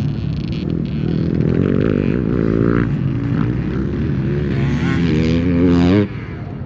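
Motocross dirt bike engine running hard, its revs climbing again and again, rising highest just before it drops off suddenly near the end.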